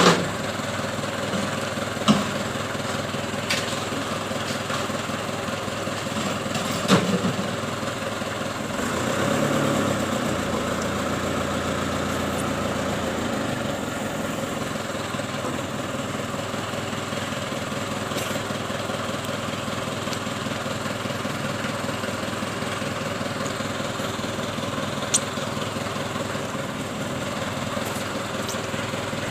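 Truck engine idling steadily. A few sharp clicks or knocks stand out, and the engine noise swells briefly about nine to ten seconds in.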